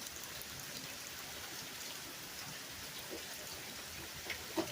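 Heavy rain pouring down, a steady hiss with scattered individual drops. A couple of louder drips land near the end.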